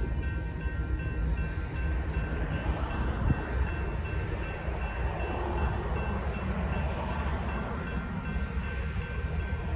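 Freight train of covered hopper cars rolling slowly past: a steady low rumble of wheels on rail, with faint steady high-pitched tones above it.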